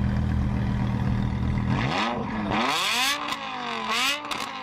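Drag-racing car engines idling, then launching off the line about two seconds in: the engine pitch climbs sharply and steps up through several quick upshifts, each a rising sweep that drops back before climbing again.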